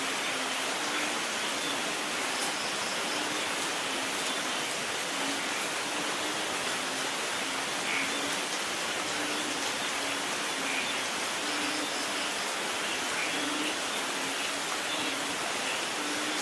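Steady rain falling, an even hiss with no thunder, and faint short low notes repeating irregularly underneath.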